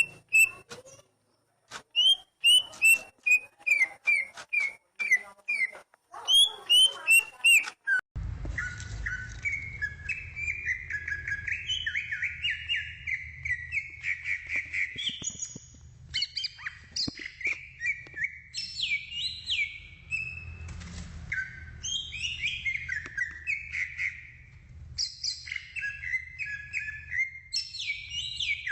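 Oriental magpie-robin (kacer) singing. First come repeated short down-slurred whistled notes in phrases. About 8 s in, the sound changes abruptly to a faster, unbroken run of varied song over a steady low hum.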